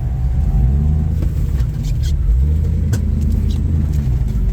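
Jeep engine revving up and down under load as it crawls a rock obstacle, with a few sharp knocks as the tyres and underside meet rock. A wheel is not gripping, so the engine surges without the Jeep climbing cleanly.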